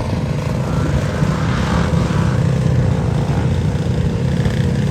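Small engine running steadily at an even speed, a constant low drone.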